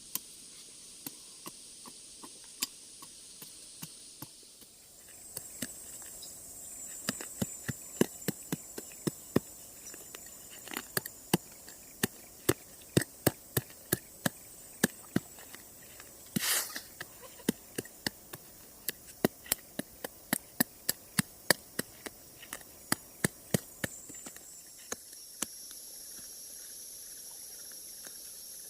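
Insects chirring steadily in a high pitch, with a long run of sharp knocks or clicks, a few a second, through the middle stretch and one short scraping burst among them.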